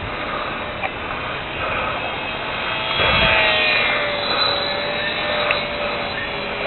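Micro RC airplane's small electric motor and propeller buzzing in flight over a steady hiss. A thin, steady whine comes in about three seconds in and holds.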